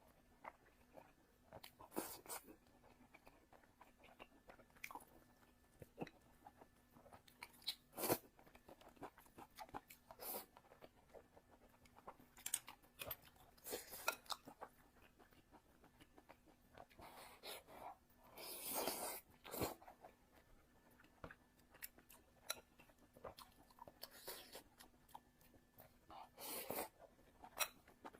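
A person eating home-style Chinese food close to the microphone: chewing and mouth sounds with scattered sharp clicks and smacks, and a longer, louder stretch of chewing about two-thirds of the way through.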